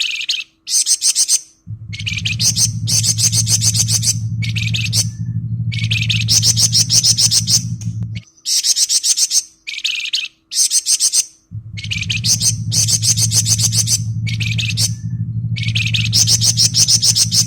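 Flamboyan songbird singing its rapid, rattling 'ngebren' song in dense high-pitched bursts of one to two seconds, repeated over and over. A steady low hum comes in about two seconds in, stops around eight seconds, and returns near twelve seconds.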